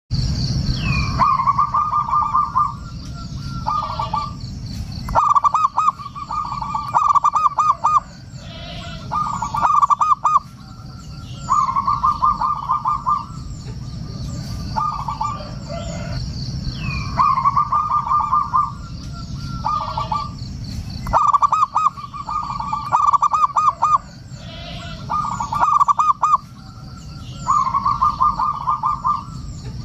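Zebra dove (perkutut) cooing in repeated phrases of rapid staccato notes, a phrase every second or two with short pauses between. It is a lure call meant to make other perkutut answer.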